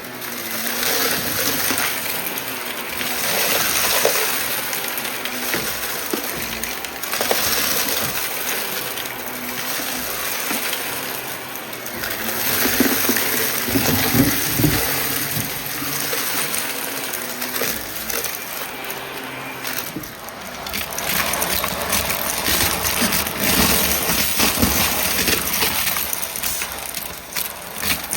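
Vacuum cleaner running and sucking up a scattered test mess, with the debris crunching and rattling through it. The sound swells and eases every few seconds as the cleaner is pushed back and forth.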